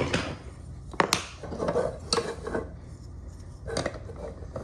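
Wooden toy train track pieces clacking together as they are handled and fitted, a few separate sharp knocks.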